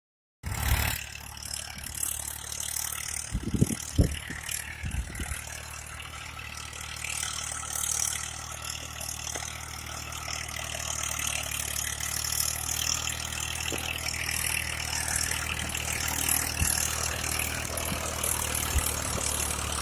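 Tractor engine running steadily while working a field, with a few knocks about four seconds in.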